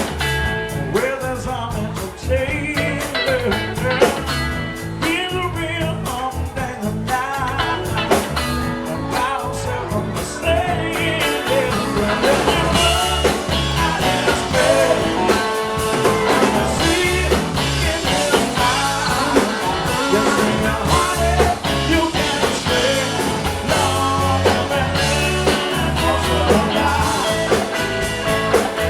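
Live blues-rock band playing a song: electric guitar, bass, drums and keyboards, with a wavering lead line over the rhythm. The band gets fuller and slightly louder about twelve seconds in.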